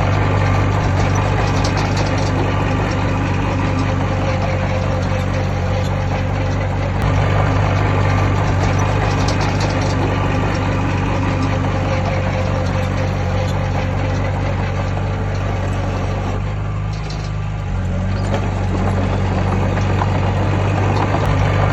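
Heavy diesel engine of earthmoving machinery running steadily. It eases off briefly about three quarters of the way through, then picks up again.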